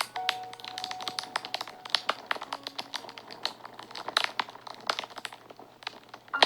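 Wood fire crackling and popping: irregular sharp snaps of varying loudness over a faint hiss.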